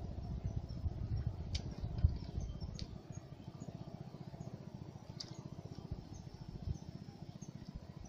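Faint high chirps from a small bird, repeating about twice a second with a few sharper calls in between, over a steady low rumble.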